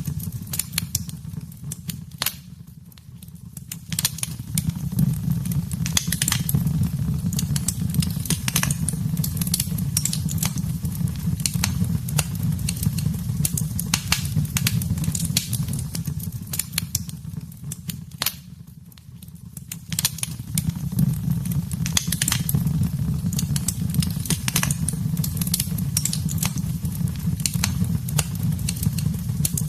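Wood fire in a fireplace crackling and popping over a low steady rumble of the flames. The crackling dies down twice, for a second or two each time, about three seconds in and again near the middle.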